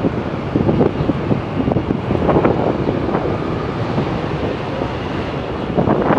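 New York City subway L train running on the track, with steel wheels clattering irregularly over the rails.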